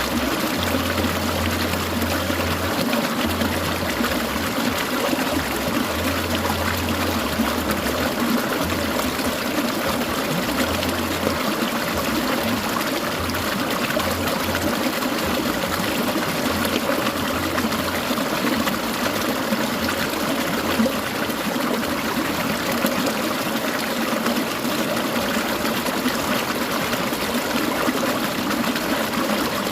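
Clear mountain stream trickling and babbling over stones, a steady continuous water sound.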